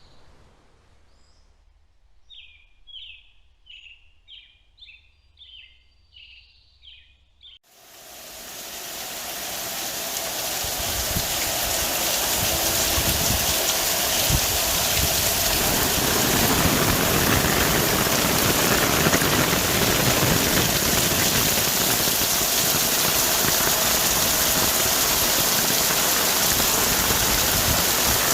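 A bird calling a series of short repeated notes, roughly one a second, over near quiet; about eight seconds in it cuts off and heavy rain falling on forest trees swells in over a few seconds, then holds steady and loud.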